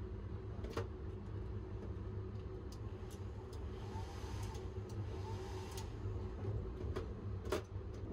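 Steady low rumble of the Sunrise Izumo sleeper train, a 285 series electric train, running, heard inside its shower room. A few sharp clicks come as the wall-mounted hair dryer is handled, one about a second in and two near the end, and a faint hiss swells and fades midway.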